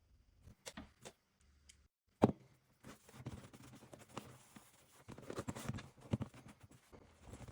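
Workbench handling noises: a couple of light clicks, one sharp knock a little over two seconds in, then irregular rustling and scraping as a leather baseball glove is worked on by hand.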